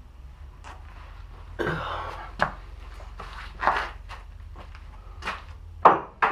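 Irregular knocks, clatters and scrapes of objects being handled over a low steady hum, with the sharpest knock near the end.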